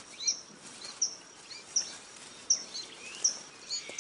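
A bird calling over and over, a short high chirp repeated evenly about every three-quarters of a second, with fainter lower chirps between, over a light outdoor hiss.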